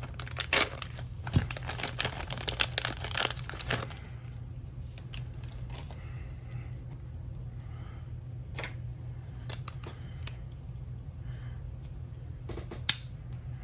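Small metal parts and a hand tool clicking and rattling while a set screw is worked off a transmission shaft, with a quick run of clicks for the first few seconds, then occasional single clicks and one sharp click near the end, over a steady low hum.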